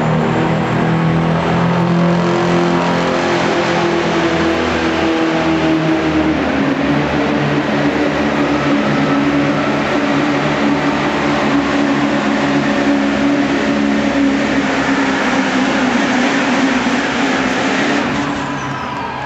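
Diesel pulling truck's engine running at full throttle through a pull, one sustained loud run whose pitch shifts about a third of the way in and which drops off near the end.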